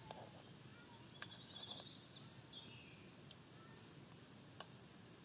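Quiet outdoor ambience with a small bird chirping a quick run of high notes about two seconds in, and a couple of faint clicks.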